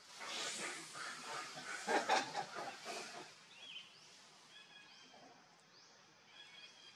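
Small birds calling in the background, with short whistled notes repeated every second or so. Over the first three seconds there is a louder burst of rough, unpitched noise.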